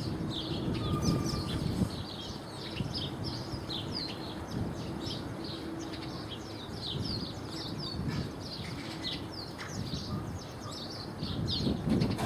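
A flock of small birds chirping, many short, quick calls overlapping continuously, over a low rumble.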